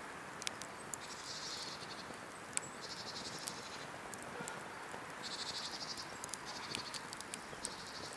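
Cedar-wood campfire crackling, with scattered sharp pops over a steady hiss, while a bird repeats a short buzzy trill about five times.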